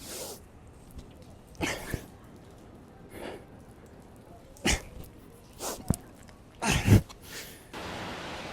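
A man's sharp, forceful exhaled breaths during pull-up reps, about five in all spaced a second or so apart, the loudest with a grunt near the end. A steady hiss sets in near the end.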